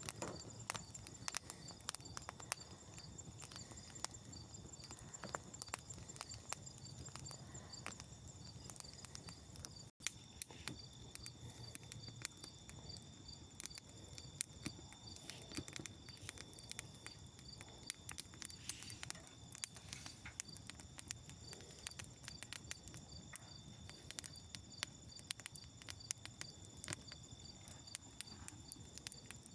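Campfire of birch and kindling crackling with irregular sharp pops, over a steady high chirring of insects that pulses regularly.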